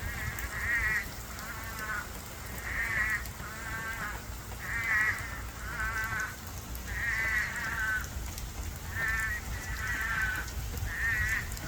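A chorus of toads calling: overlapping bleating calls, each about half a second to a second long, come roughly once a second over a steady low background noise.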